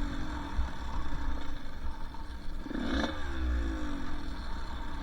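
Two-stroke dirt bike engine on the trail, its pitch falling off as the throttle closes near the start. A short burst of revs comes about three seconds in, and then the pitch falls away again, over a steady low rumble.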